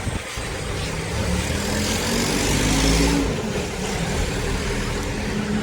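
A motor vehicle's engine passing close by on the road. It grows louder with rising pitch to a peak about three seconds in, then drops away.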